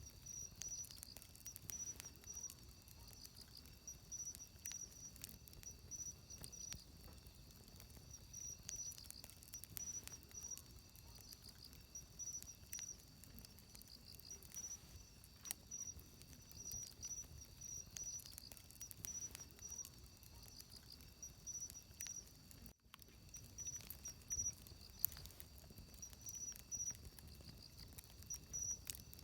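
Wood fire crackling with scattered small pops, under a high chirping of insects that repeats in short trills throughout.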